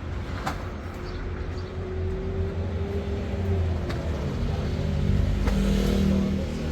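A motor vehicle running, a steady low rumble with a few sharp clicks or knocks, growing somewhat louder after about five seconds.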